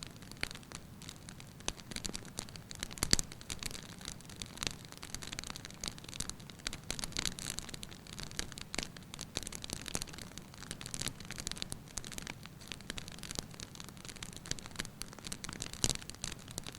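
Burning logs in a fireplace crackling: irregular sharp pops and snaps over a low steady rush of flame, the loudest pops about three seconds in and near the end.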